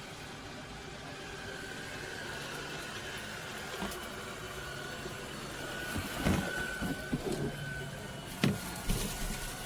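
Robot vacuum running with a steady hum and a faint high whine, with several short knocks in the last few seconds, the sharpest about eight and a half seconds in.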